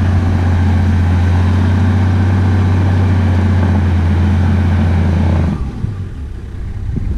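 Toyota 80 series Land Cruiser engine held at steady high revs while bogged in deep, thick mud, the driver trying to power out. It drops back sharply about five and a half seconds in as he comes off the throttle.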